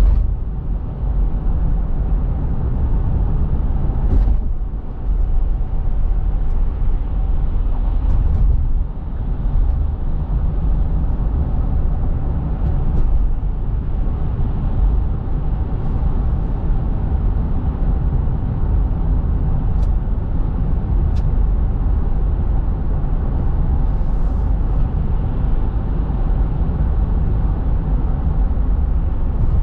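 Steady low rumble of a car driving, heard from inside: road and engine noise, with a few brief bumps.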